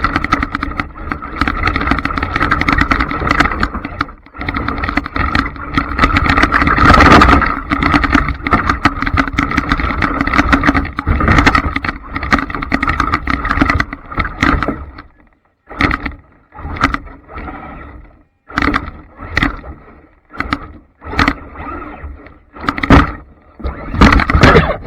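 Traxxas Slash RC trucks running: steady for about fifteen seconds, then a string of short throttle bursts with brief gaps between them.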